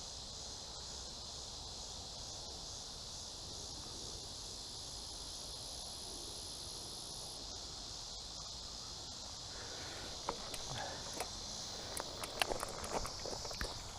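An evening insect chorus: a steady, high, slightly pulsing trill, with a fainter higher-pitched insect layer that stops about halfway through. In the last few seconds, scattered sharp clicks and light crunches join in.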